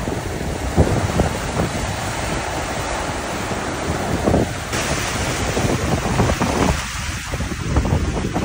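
Wind buffeting the microphone in irregular gusts over the rush of sea waves along a sailboat under way.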